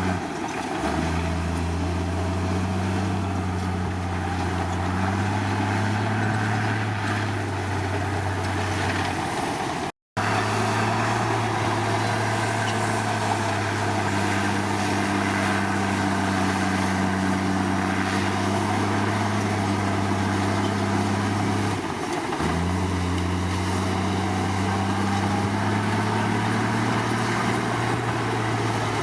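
Komatsu D53 bulldozer's diesel engine running steadily under work. The revs dip and recover twice, just after the start and about three-quarters of the way through. The sound cuts out for an instant about ten seconds in.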